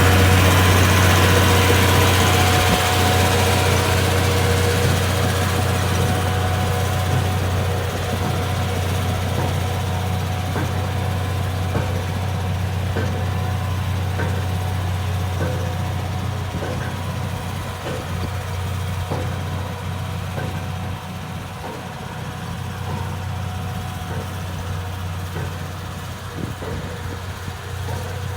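Heavy diesel engine of earthmoving machinery running steadily at idle, its low hum gradually growing quieter, with faint scattered clicks over it.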